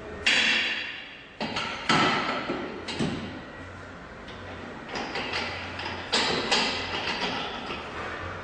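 Tyre changer at work: a series of about seven sudden clunks, each dying away within a second or so.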